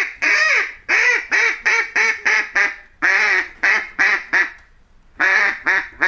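Duck quacking: a rapid series of short, harsh quacks in runs of several, pausing briefly about five seconds in before starting again.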